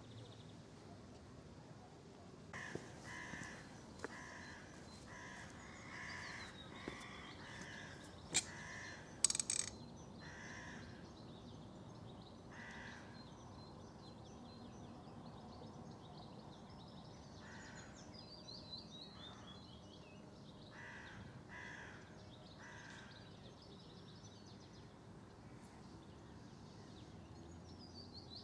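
A bird calling over and over, about one call every two-thirds of a second for several seconds, then a few more calls spread out. A small songbird's descending trill sounds twice, and two sharp clicks, the loudest sounds here, come about eight and nine seconds in.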